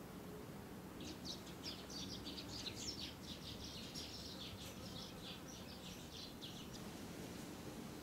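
A small bird singing a quick run of short, high notes, starting about a second in and stopping near the end, over a steady low background hum.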